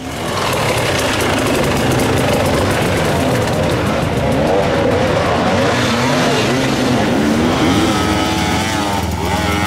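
Hard enduro dirt bike engines revving hard, the pitch climbing and dropping again and again as the throttle is worked, with more than one engine overlapping at times.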